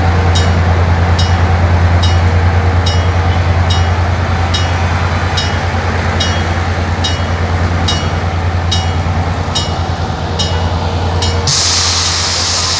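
Train running with a steady low engine hum and a regular light ticking; near the end a loud hiss sets in.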